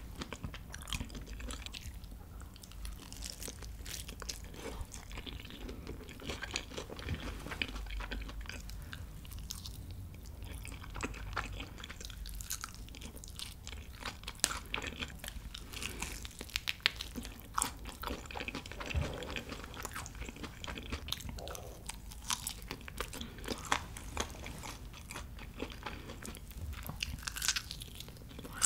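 Close-miked biting and chewing of Korean fried chicken drumsticks: crisp crunches of the coated skin and wet mouth sounds, with many short crackles throughout.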